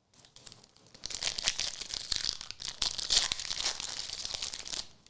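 Plastic wrapper of a trading-card pack crinkling and tearing as it is pulled open: a dense crackle of small crinkles that starts about a second in.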